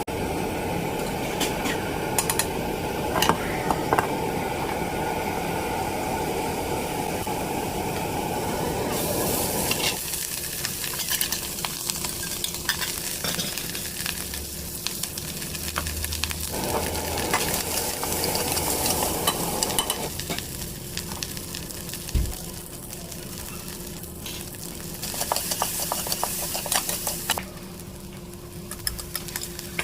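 Fried rice ingredients sizzling in a hot pan while being stirred, with a utensil clicking and scraping against the metal. The sizzle changes abruptly several times, about 10, 16, 20 and 25 seconds in.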